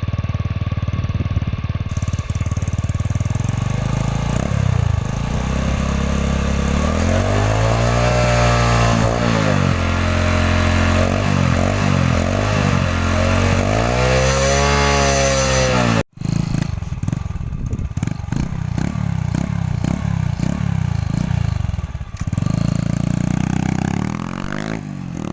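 Yamaha Jupiter Z motorcycle's single-cylinder four-stroke engine through an aftermarket VND exhaust, revved up and down in about three long swells. After a sudden break about two-thirds of the way in, it runs at lower revs with an uneven, pulsing beat.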